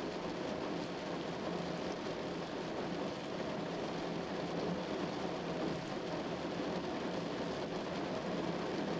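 Steady rain falling, an even hiss with a faint low hum beneath it.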